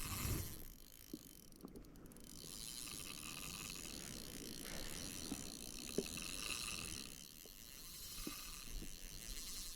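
Shimano Ultegra 2000 spinning reel being cranked, winding line in, in two spells with a short pause between, along with a few light knocks.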